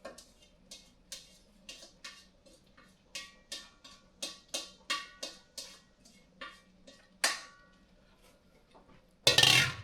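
Metal utensil clinking and tapping against a cooking pot, about three sharp ringing clicks a second, then a loud short rush of noise near the end.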